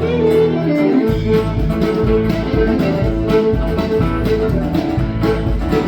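Live country band playing an instrumental break between verses: a picked guitar lead over bass and a steady beat that comes in about a second in.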